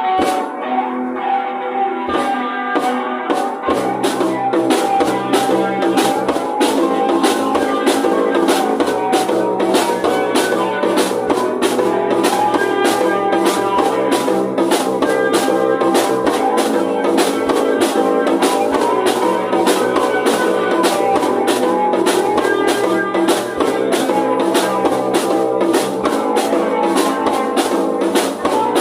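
Heavy rock music. A guitar plays alone at first, a drum kit comes in about two seconds in, and bass joins a second or two later, the full band then playing on steadily.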